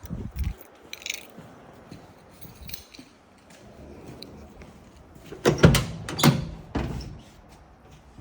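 Clunks and knocks from a pickup's cab door being worked, with a cluster of heavy thumps about five and a half seconds in and lighter clicks around them.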